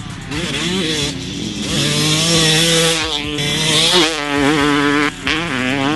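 Yamaha YZ250 two-stroke dirt bike engine, fitted with a Pro Circuit pipe and titanium silencer, revving up and down as the bike is ridden. The pitch climbs and holds high about two seconds in, wavers, then dips and rises again near the end.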